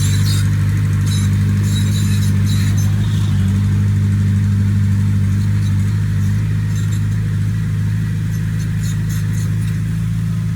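Diesel engine of heavy earthmoving machinery running steadily at a low, even pitch, with light clattering and rattling over it. The engine note eases slightly about six seconds in.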